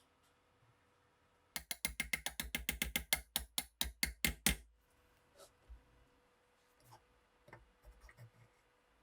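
A run of rapid mechanical clicks, about ten a second for some three seconds, slowing toward the end, then a few scattered light taps.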